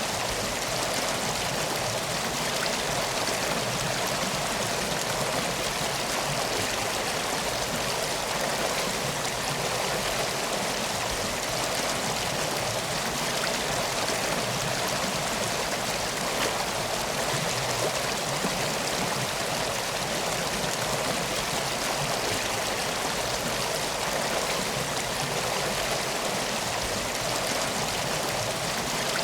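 Steady rushing of a flowing river, an even wash of water noise with no breaks.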